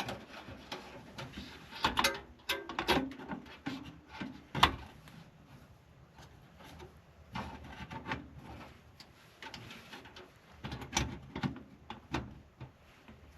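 Scattered clicks, taps and knocks of computer parts being handled in a metal PC case during a motherboard install, the sharpest about two and four and a half seconds in, with another cluster near the end.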